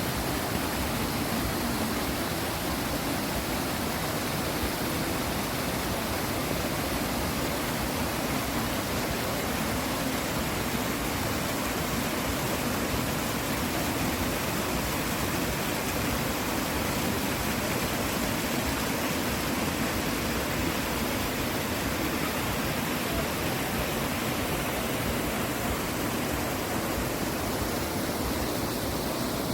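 Steady rush of flowing water, a stream or small waterfall, unbroken and even.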